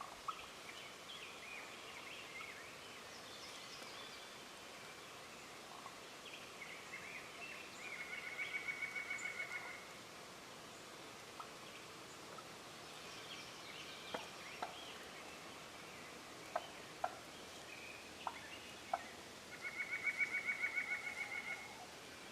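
A wild turkey gobbling twice, each gobble a rapid rattle about two seconds long, roughly eleven seconds apart. A few short sharp notes come between the gobbles, over faint chirping of small birds.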